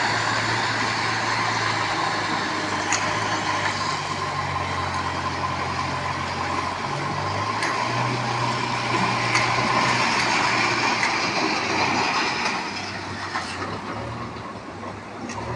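Train running past on the track: a steady rumble of wheels and running gear with a low hum and a few sharp clicks, easing off in the last few seconds.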